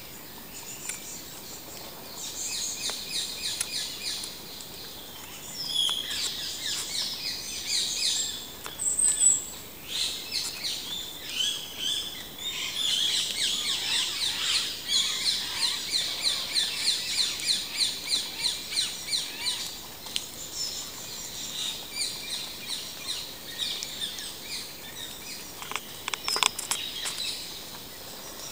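Small birds singing and chirping in woodland, several calls overlapping, with a long run of quickly repeated notes, about four a second, through the middle. A few short, sharp clicks sound near the end.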